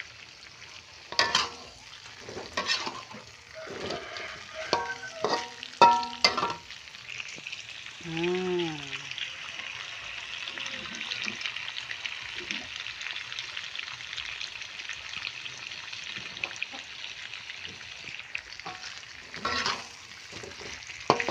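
Chicken rica-rica frying in oil in a wok, a steady sizzle, with a metal spatula scraping and knocking against the pan in several loud strokes, bunched in the first seven seconds and again near the end.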